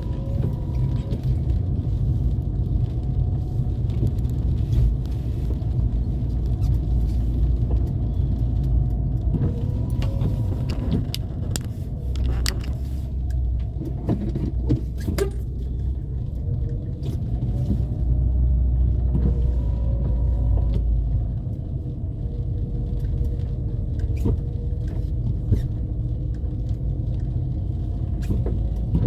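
Car driving along a street: a steady low rumble from engine and road, with frequent short clicks and rattles as it rides over bumps.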